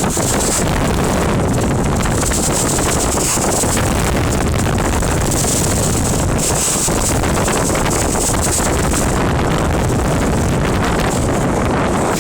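Strong wind rushing over the microphone aboard a boat under way on a windy sea: a loud, steady roar whose high hiss swells and fades irregularly.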